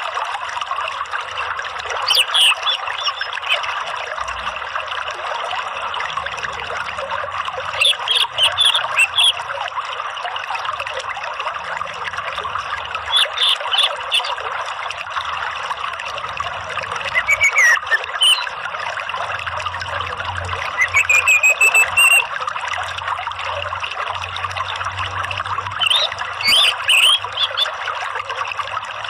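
Running water trickling steadily, with short bursts of orange-headed thrush song breaking in every few seconds, about six in all.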